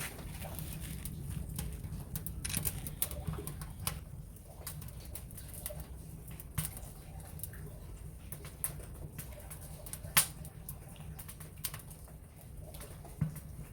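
Wood fire burning in a ceramic pot, crackling with irregular sharp pops over a steady low rumble, one pop standing out loudest about ten seconds in.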